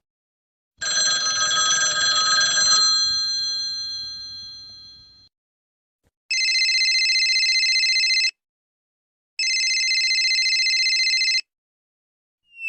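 A bell rattles for about two seconds and rings down, then a telephone rings twice, each ring about two seconds long with a short gap between.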